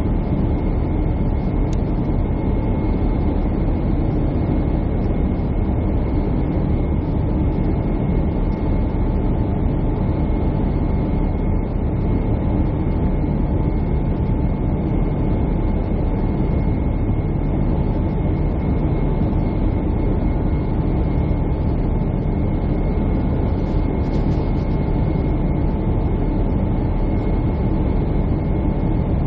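Jet airliner cabin noise: a steady drone of engines and rushing air, with a thin steady whine above it.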